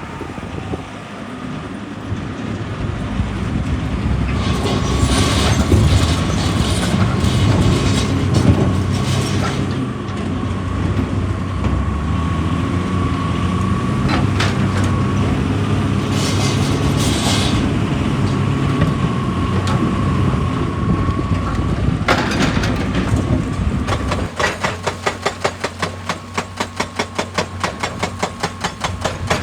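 Excavator's diesel engine working hard under hydraulic load with a steady whine, with bursts of grinding and crunching rock. About 24 seconds in, a rapid, even pounding starts, the rhythm of a hydraulic breaker hammer striking rock.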